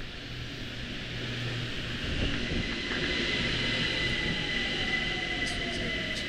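BTS Skytrain electric train pulling into the station, growing louder about two seconds in with wheel-on-rail hiss and a steady high whine. Over the last few seconds a motor tone glides down in pitch as the train brakes.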